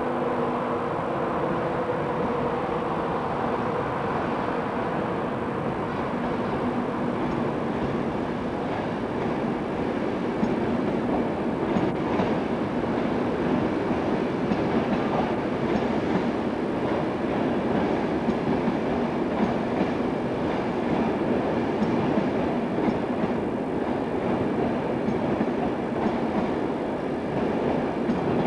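A train passing along the line, its wheels clicking over the rail joints in a steady run of clatter that grows a little louder about ten seconds in. A humming tone fades out in the first couple of seconds.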